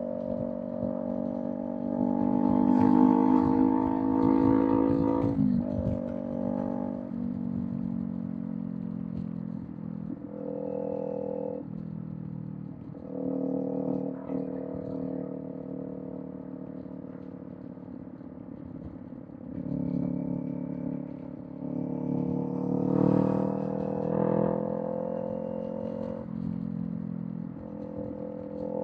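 Kawasaki Z400 parallel-twin engine through a Villain M1 aftermarket exhaust at expressway riding. Its revs climb under throttle and fall away several times: a sharp drop about five seconds in, short breaks as the throttle closes, and another climb about twenty seconds in.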